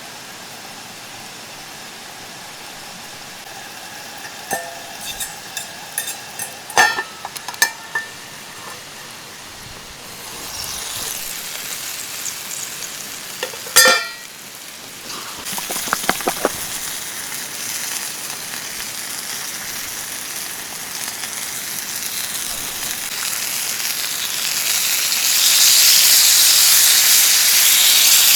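Metal cookware clinking a few times with a sharper clang, then food sizzling in a pan over a campfire, the sizzle growing louder toward the end.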